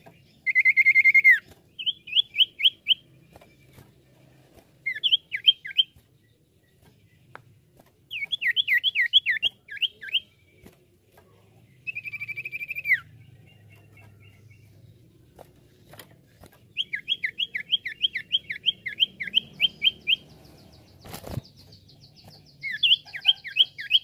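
Common iora (cipoh) singing in bursts: long clear whistled notes and runs of rapid, quick downward-sweeping chirps, repeated several times with short pauses between. A single sharp knock near the end.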